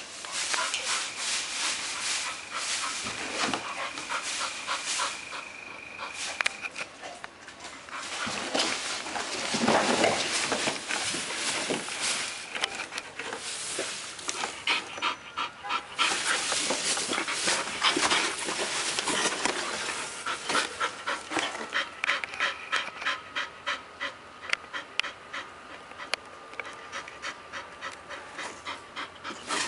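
Bull terrier puppy panting while it plays with a big cardboard box, with scratching and rustling of the cardboard in several loud stretches. The panting becomes a regular, quick rhythm near the end.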